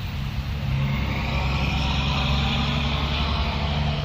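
Steady low drone of a motor vehicle engine running, with a broad hiss above it.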